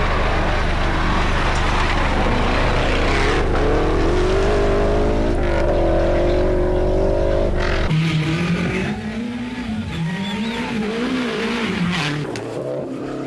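Rally car engine revving hard at close range, its pitch rising and falling through the gears over heavy road noise. About eight seconds in, the sound cuts off abruptly to a quieter stretch with a wavering engine note.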